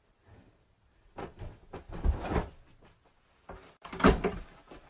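Several knocks and rattles, irregular and clattering, with the loudest sharp knock about four seconds in.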